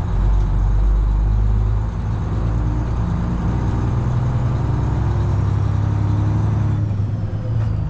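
Detroit Diesel 12.7 engine of a Freightliner Classic XL semi truck running steadily while driving, heard from inside the cab, with a brief dip in level about two seconds in.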